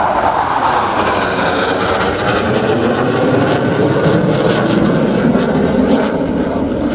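Jet noise from Blue Angels F/A-18 Super Hornets flying past: a loud, steady rush of jet engine sound whose pitch sweeps slowly as the aircraft pass.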